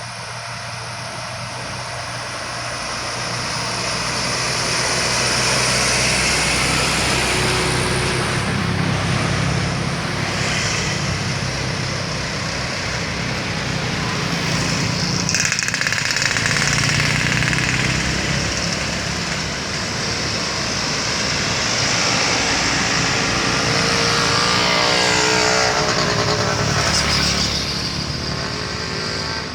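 Road traffic on an uphill bend: truck and other vehicle engines running under load as they climb past, loud and continuous. One vehicle passes close near the end with a sweep in pitch.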